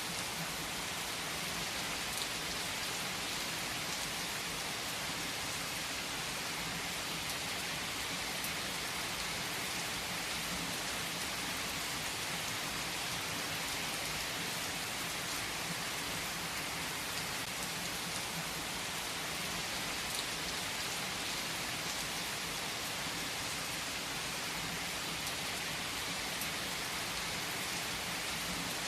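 Steady rain falling in an even hiss, with a few faint sharp clicks now and then.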